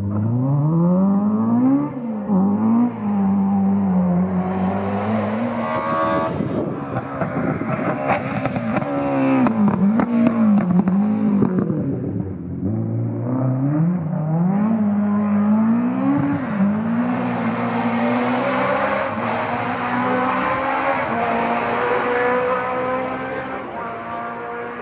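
Historic rally car engine revving hard, its pitch climbing and dropping again and again through gear changes and lifts, with a few sharp cracks around the middle.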